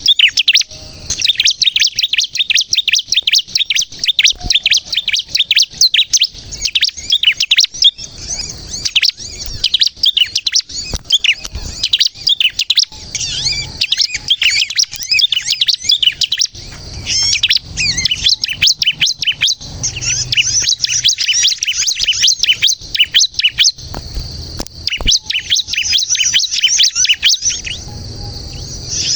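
Bar-winged prinia (ciblek) in full, vigorous song: rapid strings of sharp, high-pitched chirps and trills that run on almost without a break, with only a few short pauses.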